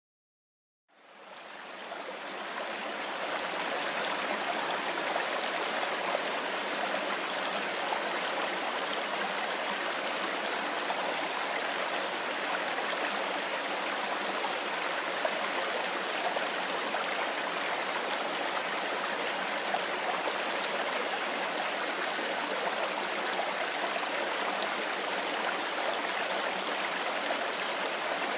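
Mountain river water flowing steadily, fading in about a second in.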